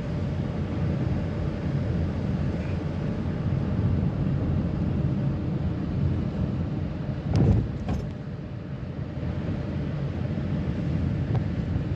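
A vehicle driving along a forest road: a steady low rumble of engine and road noise, with a single thump about seven and a half seconds in.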